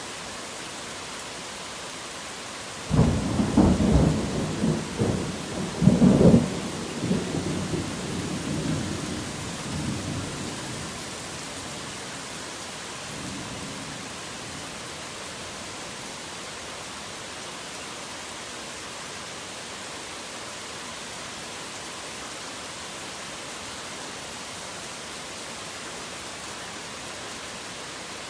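Steady heavy rain hissing, with a clap of thunder that breaks suddenly about three seconds in, cracks again a few seconds later and rumbles away over several seconds.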